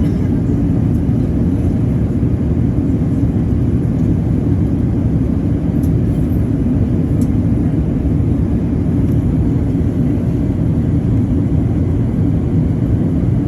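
Airbus A380 cabin noise: a steady low rumble of engines and air, heard from inside the passenger cabin.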